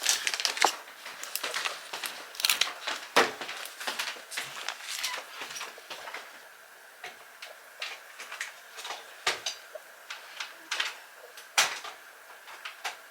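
Irregular small clicks and knocks, the loudest about three seconds in and again near the end.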